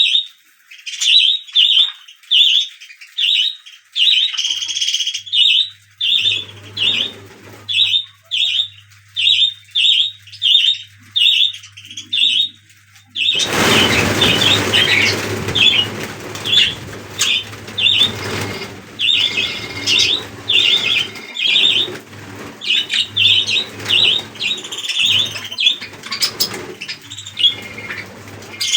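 Budgerigar chicks calling in a regular series of short, high chirps, about two a second. About halfway through, a loud rustling noise joins and runs alongside the calls.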